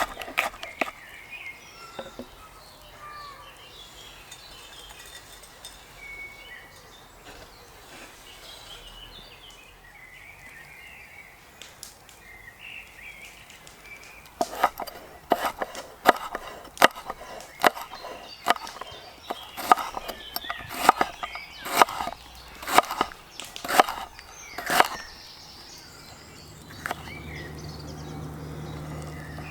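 Repeated chopping strikes on wood, about fifteen sharp blows at an uneven pace over some ten seconds, after a quiet stretch with faint birdsong; a steady low hum starts near the end.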